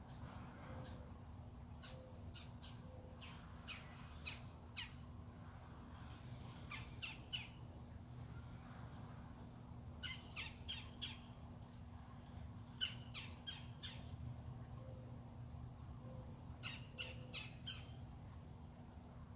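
Bird calls: clusters of three to five short, sharp, high notes, repeated about every three seconds, over a steady low hum.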